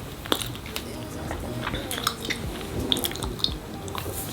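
Close chewing and small mouth clicks of someone eating soft Easter cake with nuts, with many short crackly clicks scattered through.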